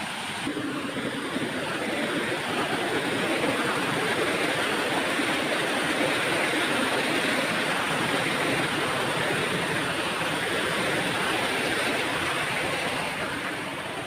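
Steady rush of flowing, falling water. It swells about two seconds in and fades near the end.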